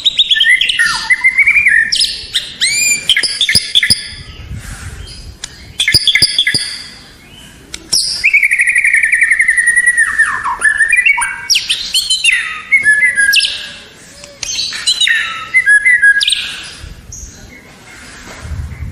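White-rumped shama (murai batu) singing a loud, varied song of clear whistles, rapid trills and sliding notes, in phrases broken by short pauses.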